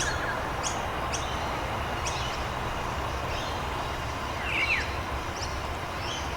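Steady rain with birds chirping over it: a few short, sharp calls in the first two seconds and a pair of falling whistles about four and a half seconds in.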